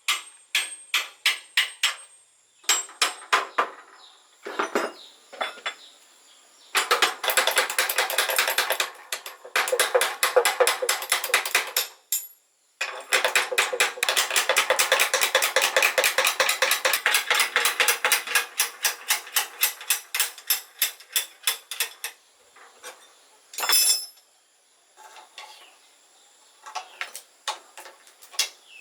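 Rapid, repeated metal tapping and clinking from hand work on metal parts, in long runs of quick strikes with short pauses between them.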